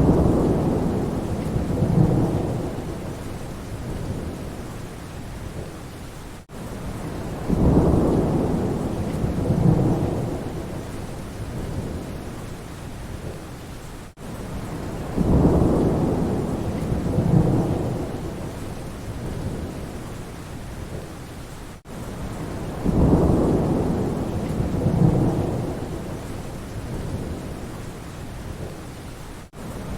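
Steady rain with low rumbles of thunder that swell twice in quick succession about every eight seconds. The same short stretch repeats as a loop, with a brief dropout at each join.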